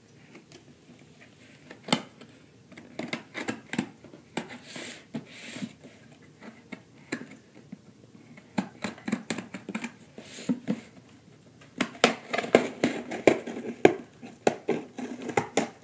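Packing tape on a cardboard box being scored and torn open with a pen-like tool: irregular scratches, taps and rustles, busiest in the last few seconds.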